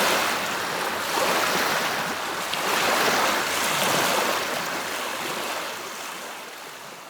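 Small waves washing against a lakeshore in slow, uneven swells, fading out near the end.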